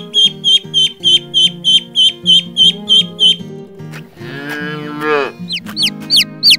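A duckling peeping rapidly, about three or four short falling peeps a second, then a cow mooing once with a falling pitch, followed by a chick peeping, over background music.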